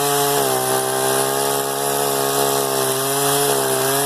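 Chainsaw engine running steadily at high revs, its pitch wavering slightly.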